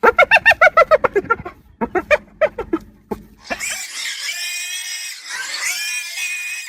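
An animal calling: a quick run of short pitched pulses, about eight a second, then a second shorter run, then a higher, noisier drawn-out call from about halfway through.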